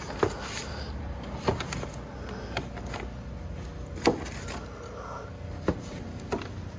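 Six scattered sharp clicks and knocks, irregularly spaced, over a low steady hum.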